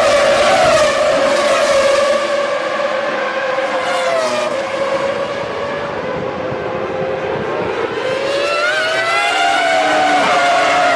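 Formula One car engines running at high revs, a loud high-pitched whine that wavers up and down in pitch, easing off in the middle and rising again about eight seconds in.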